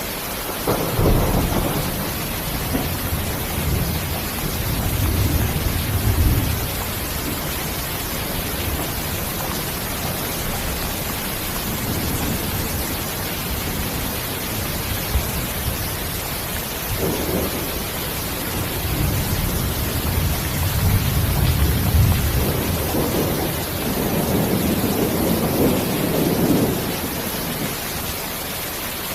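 Steady rain hissing, with two long rolls of thunder rumbling under it: one near the start and a longer one in the second half.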